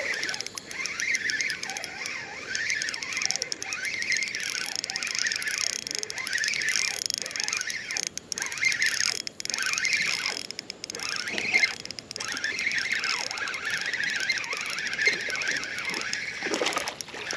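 Fishing reel squeaking and clicking over and over as a hooked catfish is reeled in.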